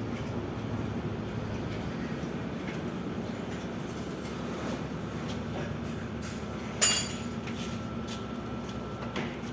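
Steady low hum, broken about seven seconds in by one sharp metallic clank that rings briefly, with a lighter knock near the end: metal tools or parts handled while dismantling an industrial washing machine's drum.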